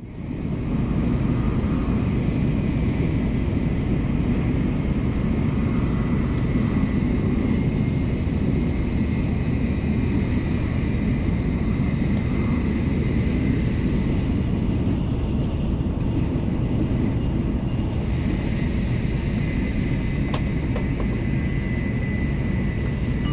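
Steady running noise inside a Tokaido Shinkansen car travelling at speed: an even low rumble of wheels and rushing air with a thin high steady tone over it, and a couple of faint clicks near the end.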